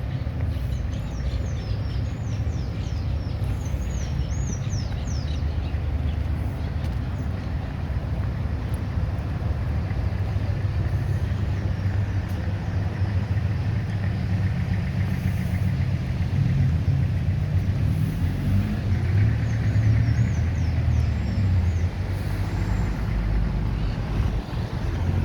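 Street traffic: a low engine rumble from passing road vehicles, including a heavy vehicle, that grows louder in the second half. A bird chirps in quick repeated notes during the first few seconds and again near the end.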